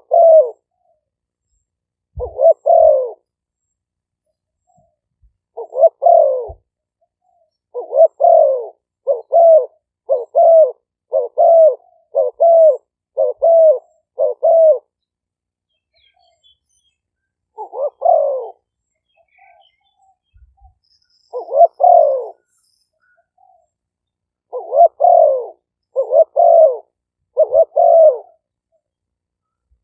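Spotted dove cooing: a series of short, low coos, with a quick run of about one a second in the middle of the stretch and longer pauses before and after.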